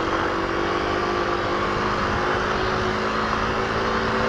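Kawasaki KLX250's single-cylinder four-stroke engine running at a steady speed while riding, its note holding one pitch, with wind rush over the microphone.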